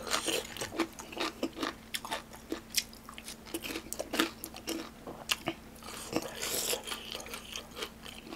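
Close-miked chewing: a person eating a mouthful of food, with many short sharp mouth clicks and crunches coming irregularly, several a second.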